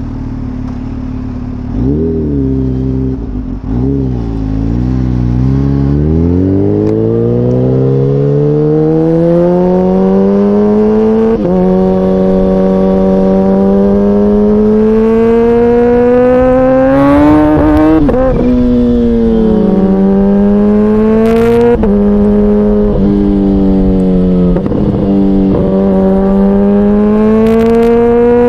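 Motorcycle engine idling, blipped up and down a few times, then pulling away and accelerating hard. Its pitch climbs steadily, dropping sharply at each of several gear changes.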